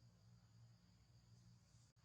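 Near silence: a faint steady low hum under a faint steady high-pitched whine, with a momentary dropout near the end.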